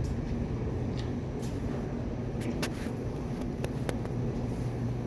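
Rapid-transit train running in a station: a steady low rumble and hum, with a few light clicks and knocks scattered through it.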